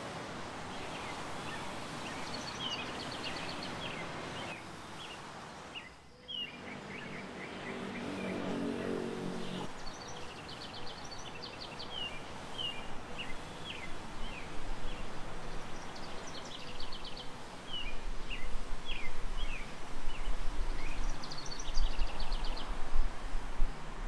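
Small birds chirping in quick, repeated clusters of short high notes over outdoor background noise, with a lower, drawn-out call lasting about two seconds around the middle. A low gusting rumble comes in during the second half and grows louder toward the end.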